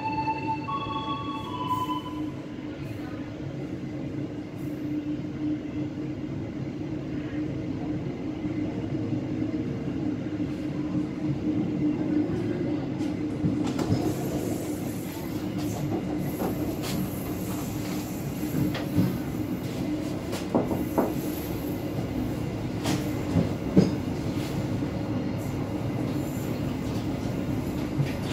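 Passenger train running along the track: a steady rumble of wheels on rail, with sharp clicks and knocks from the wheels over the rails coming more often in the second half. A short stepped tone sounds near the start.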